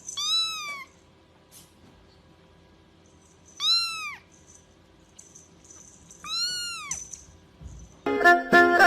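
Kitten meowing three times, each a high call that rises and then falls, about three seconds apart. Music starts near the end.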